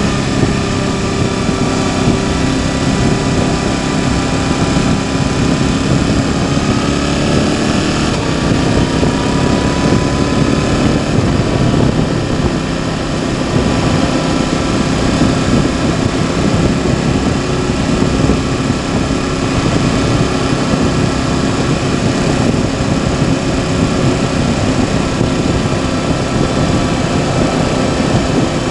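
Motorcycle engine running at a fairly steady note while riding, mixed with heavy wind and road noise, picked up by a helmet chin-mount microphone.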